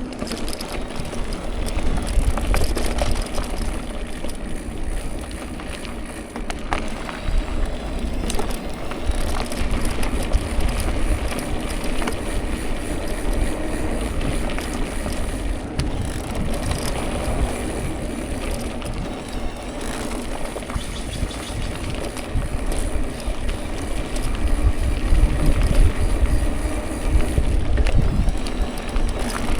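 A bicycle being ridden: a steady rolling noise with a heavy low rumble, and scattered clicks and rattles.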